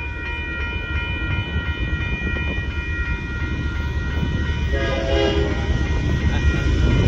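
Union Pacific freight train approaching with a low rumble that grows louder, and its locomotive's multi-note air horn sounding in short blasts from about five seconds in.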